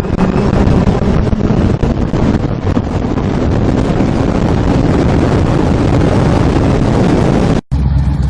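Loud, steady rushing wind noise on the microphone during a run in a sand truck driven by a Tesla electric motor, with no engine note. The sound cuts out briefly near the end.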